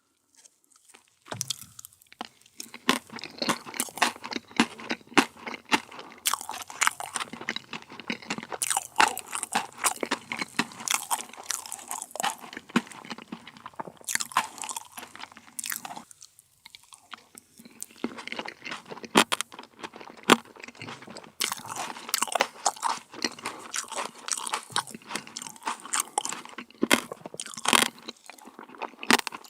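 Close-miked eating of dessert: a steady run of crunchy bites and chewing, with dense crackling clicks and a short pause about halfway through.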